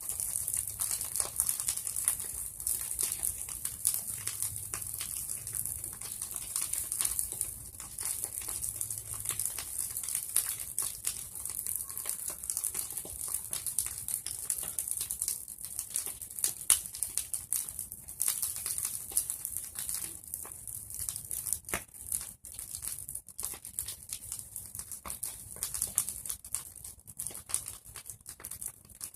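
Bonfire of pruned tree branches burning, a dense crackle of small pops and snaps over a steady hiss, with a few sharper pops.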